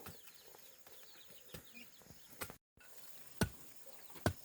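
Ducklings peeping, many small high chirps overlapping throughout. Two sharp knocks near the end, the first the louder.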